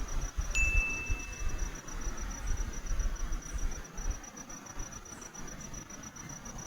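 Insects trilling steadily in a fast, even, high-pitched pulse over a low rumble of wind or handling noise. About half a second in, a single clear whistled tone starts abruptly and holds for about a second.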